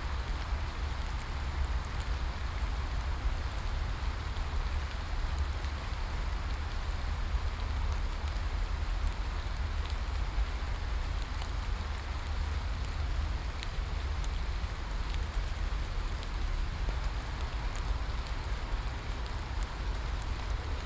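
Steady rain falling: an even hiss with a steady low rumble beneath it and faint scattered drop ticks.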